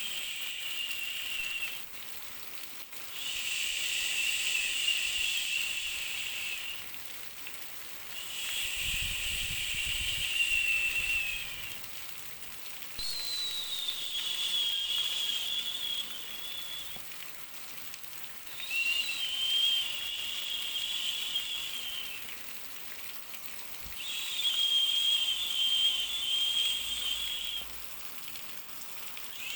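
Baby white-noise track: a steady hiss that swells into a louder, high hiss with a faint whistling tone about every five seconds. Each swell lasts three to four seconds, sinks slightly in pitch and then drops back.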